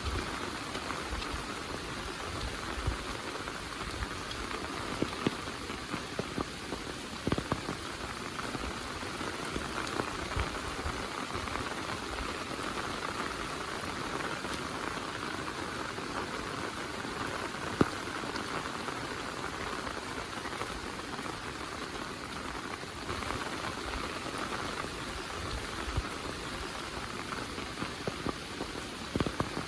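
Heavy rain falling steadily, with scattered louder drops striking close by, one sharper hit about eighteen seconds in.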